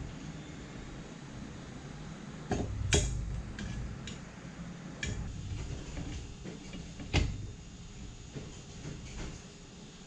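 Scattered clicks and knocks from handling a bicycle's disc brake and wheel, the loudest about three seconds in and about seven seconds in, over a low steady hum.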